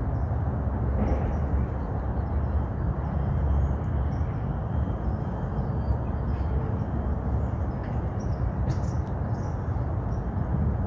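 Steady outdoor background noise, a low rumble with no distinct events, and only a few faint high chirps now and then.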